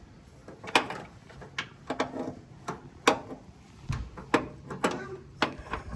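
Hand tools clicking and clinking on metal, a dozen or so irregular sharp clicks, as a wrench works at tight old brake line fittings.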